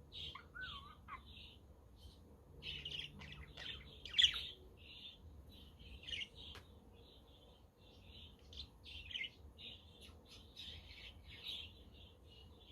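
A flock of budgerigars chattering with many quick overlapping chirps, and one sharp, loud chirp about four seconds in.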